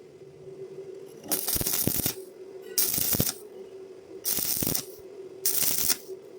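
Welding arc crackling in four short bursts, each about half a second long and spaced about a second and a half apart, over a steady hum.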